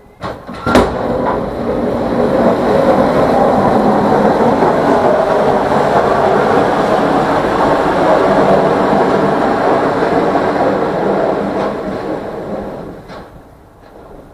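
A loud, steady mechanical rumble, like a large vehicle running close by. It starts just after two sharp knocks and dies away near the end, followed by a small click.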